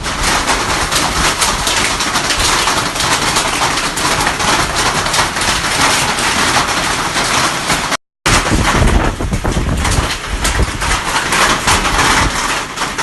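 Loud, steady rush of running floodwater in a rain-filled ravine, with a brief cut-out in the sound about eight seconds in.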